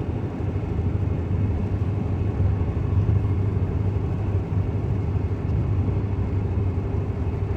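Steady road noise heard from inside a car driving in the rain: a low rumble with an even hiss from the tyres on the wet road.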